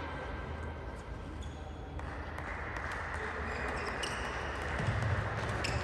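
Indoor sports hall ambience: a steady murmur of noise with a few faint, sharp knocks spread through it.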